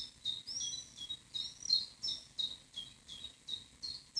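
Songbird calling: a quick run of short, high chirps, about three a second, some sliding down in pitch.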